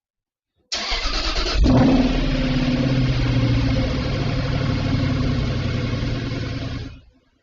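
Car engine started: the starter cranks for about a second, then the engine catches with a brief rev and settles into a steady idle. The sound cuts off abruptly near the end.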